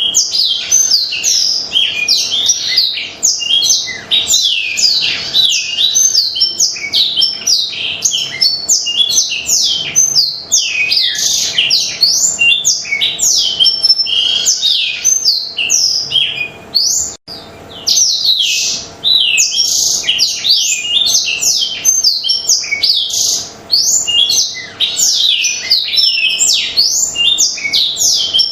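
Blackthroat (black-throated canary) in full, nonstop song: a fast, continuous stream of high chirps and trills, with a brief break about seventeen seconds in.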